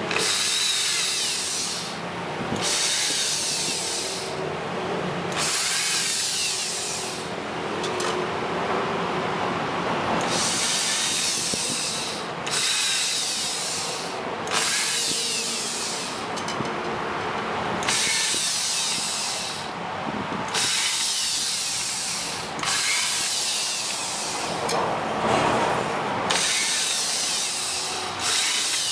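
Electric drill running in short bursts of a second or two each, about a dozen times, boring peg holes into the cage frame's posts so that crossing pegs will lock together.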